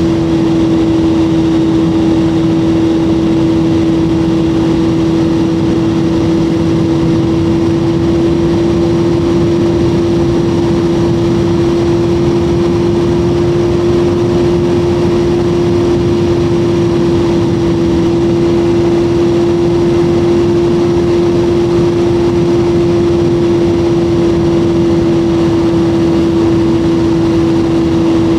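BMW motorcycle's engine running at a steady cruising speed, its note holding almost constant pitch, with wind rush over the microphone.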